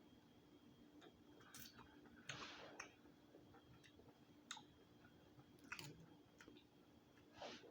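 Quiet eating of boiled crab: faint chewing with scattered sharp clicks and a short crackle about two and a half seconds in, over a faint steady hum.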